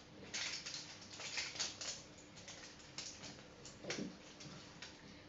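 Plastic toy packaging being peeled and handled, giving a run of quick crinkles and rustles, thickest in the first two seconds, with a few louder crackles later.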